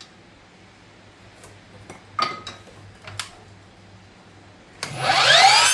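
A few light knocks of wood being handled, then about five seconds in a chop saw starts, its motor whine rising in pitch as the blade spins up.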